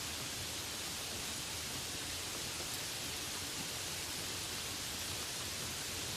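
Steady rain falling: a continuous, even hiss with no distinct drops standing out.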